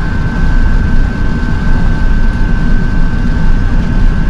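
Airbus A380 cabin noise while the aircraft taxis after landing: a steady, loud low rumble with a constant high whine over it.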